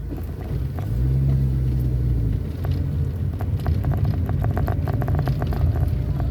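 Motor vehicle running on the road, its engine a steady low drone that grows louder about a second in. From about three seconds in comes a quick run of knocks and rattles, as from a rough road surface.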